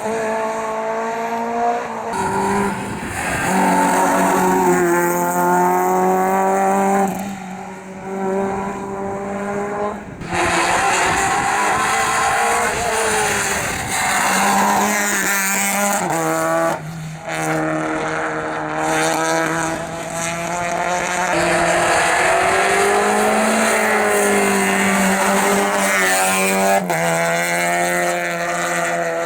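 Rally cars at full attack on a special stage. The engines rev hard and the pitch climbs and drops with each gear change and braking, with tyre squeal in the corners. The sound jumps abruptly several times from one car to the next.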